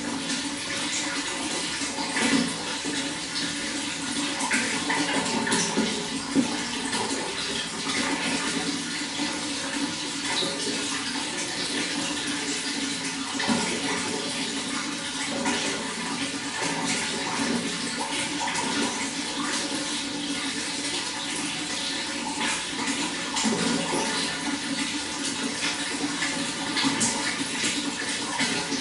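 Running water: a steady, continuous rush with many small splashes throughout.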